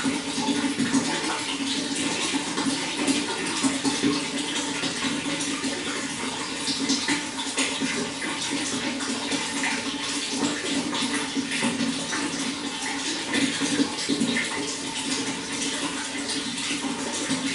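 Running water flowing steadily, full of small splashes and gurgles.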